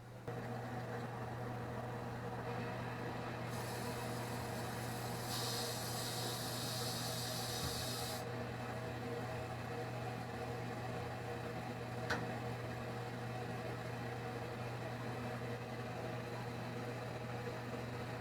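Bosch gas tankless water heater running while clean water flushes through it: a steady hum with a rushing noise. A high hiss joins from about three and a half to eight seconds in, and there is a single click about twelve seconds in.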